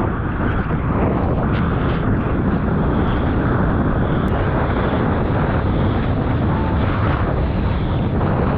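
Strong wind buffeting the microphone: a loud, steady, rumbling rush.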